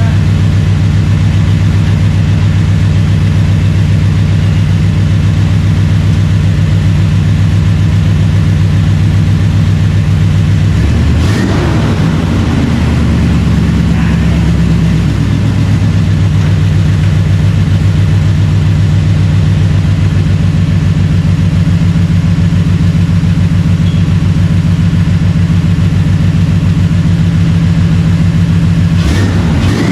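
Gen 6 454 big-block Chevy V8 idling steadily through dual 3-inch exhaust with chambered mufflers. It runs with a smooth idle and little chop, the mark of a mild cam. About eleven seconds in the engine is revved once and settles back to idle.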